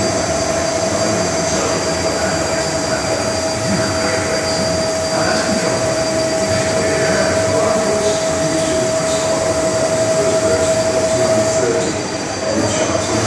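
Colchester Harrison centre lathe running under power while a grooving tool cuts a rope-drum thread: a steady high whine over a dense mechanical rumble and grind. The whine drops away and the sound dips briefly near the end.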